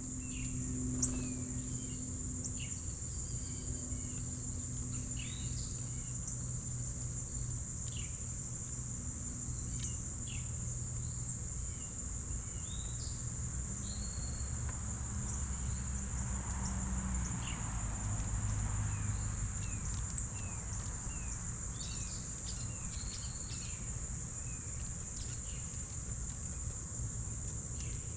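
Insects trilling in one steady high-pitched note, with short bird chirps and calls scattered through it and a low hum underneath.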